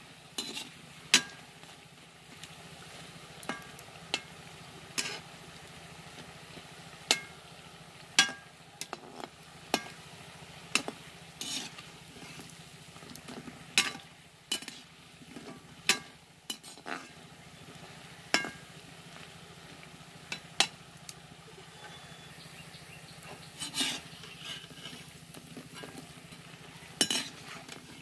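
Pakoras frying in oil in a metal kadhai with a faint steady sizzle, while a perforated metal skimmer clinks and scrapes against the pan every second or two as they are turned.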